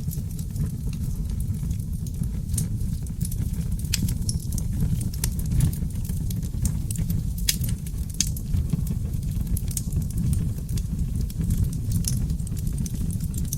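Wood fire burning in a fireplace: a steady low rumble of flames with frequent sharp, irregular crackles and pops from the burning oak logs.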